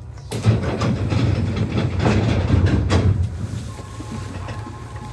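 Nishitetsu 600 series electric train running: a sudden loud wheel-and-rail rattle with rapid clicks for about three seconds, then quieter running noise with a faint steady high tone.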